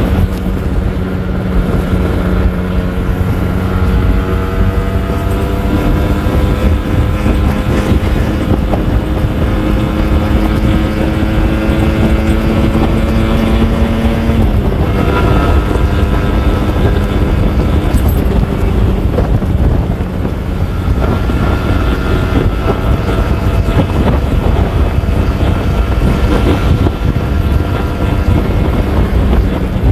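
Kawasaki Ninja R 150's single-cylinder two-stroke engine running, its pitch climbing slowly for about fourteen seconds, then dropping sharply and holding steady. Wind noise on the microphone.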